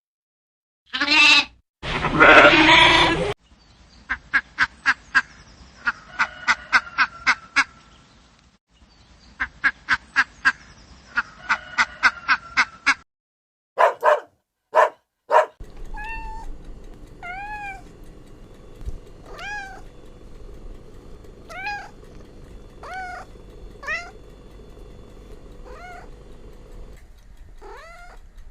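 Several animal recordings in turn: a few loud calls, then runs of quick repeated chirps, then a cat meowing over and over, one short arched mew every second or two.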